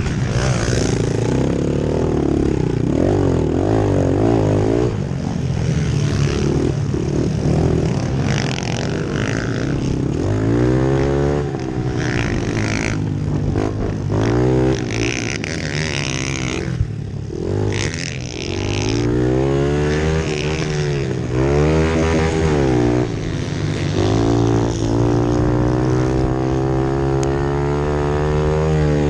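Several pit bike engines racing, their pitch repeatedly rising and falling as the riders rev and shift, with more than one bike heard at once.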